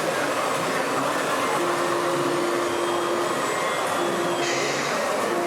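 Whirring of small electric motors and gearboxes of radio-controlled model vehicles, with a steady hum that comes in about a second and a half in and again near four seconds.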